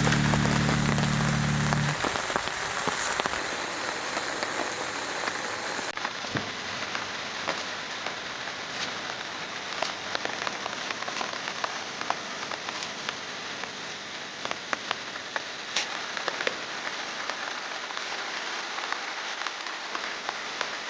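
Steady rainfall with many individual drops landing in scattered sharp hits.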